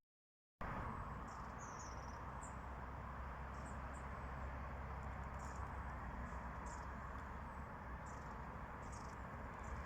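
Faint outdoor ambience with a steady low background hiss, broken by short, high chirps from small birds every half-second to a second. It starts after a half-second gap of silence.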